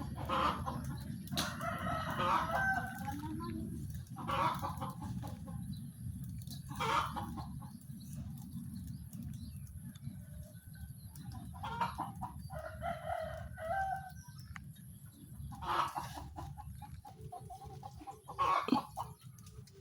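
Chickens clucking and a rooster crowing, in repeated calls every second or two, over a steady low rumble.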